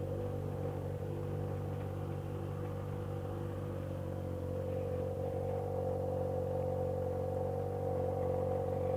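Yamaha XJ6 motorcycle's inline-four engine idling steadily.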